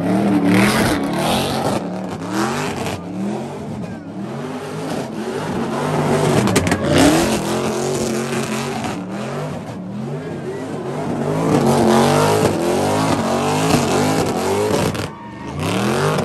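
Car engine revving hard again and again, its pitch rising and falling repeatedly, as the car does burnout donuts in its own tyre smoke. The crowd's shouting runs underneath.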